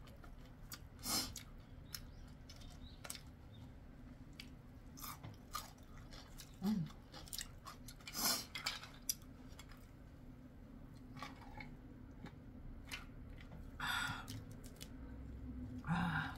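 A person chewing crunchy fried chicken close to the microphone: irregular crunches and mouth clicks, with a few louder bites.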